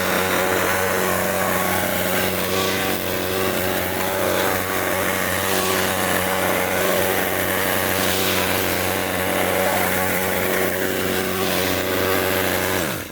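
Craftsman 4.0 hp push-mower engine running steadily at a fixed speed with its freshly cleaned carburetor, then shut off near the end, its pitch falling as it stops.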